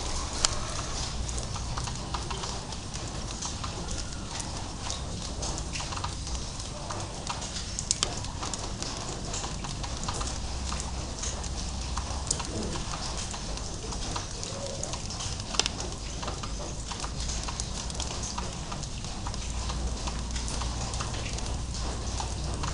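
Light drizzle: drops falling irregularly, ticking and tapping on hard surfaces, over a steady hiss and a low rumble.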